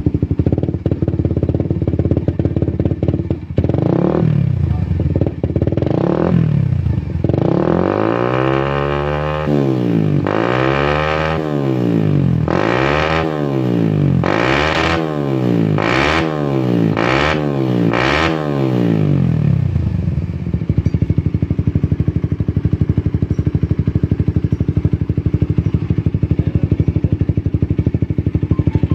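Suzuki GSX-R150's single-cylinder four-stroke engine running through an SJ 88 aftermarket racing muffler. It idles, is blipped twice, then is revved up and down in a quick run of throttle stabs before dropping back to a steady, pulsing idle about twenty seconds in.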